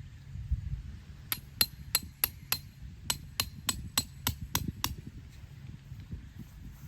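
About a dozen quick hammer strikes on metal, evenly spaced at a little under four a second, each with a short bright ring. They start about a second in and stop near five seconds.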